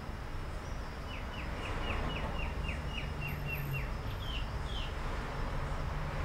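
A bird calls a quick run of about a dozen short, downward-sliding notes, then two higher notes, over a steady low rumble.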